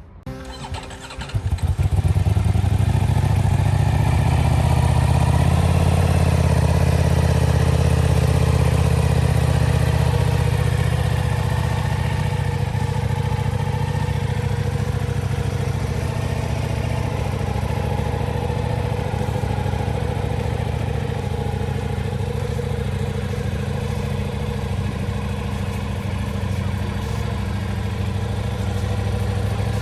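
Ducati Diavel V4's V4 engine cold-started: a brief crank, the engine catches about a second and a half in, then idles high and steady, easing down a little about ten seconds later as the fast idle settles.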